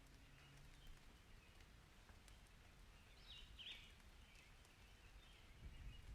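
Near silence: faint bird chirps, a quick pair of short chirps about halfway through, with a few fainter ones around them, over a low background hush.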